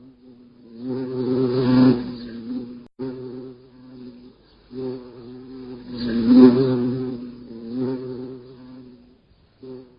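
A steady, low buzzing drone that swells louder twice and then fades away near the end.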